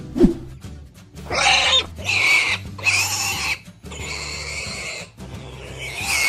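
Cartoon pig sound effects: four or five short pig calls in a row over background music with a steady low bass. A short low thump just after the start is the loudest moment.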